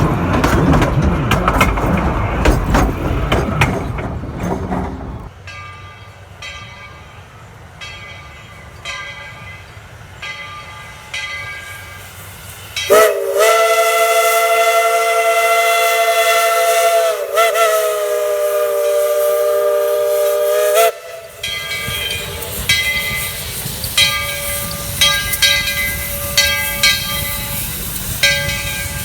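Steam whistle of narrow-gauge 4-6-0 locomotive No. 190, its original White Pass & Yukon chime whistle, sounding one long chord of about eight seconds with a brief dip in pitch midway. It opens on a loud rushing rumble that stops about five seconds in, and regular ringing metallic strikes come before and after the whistle.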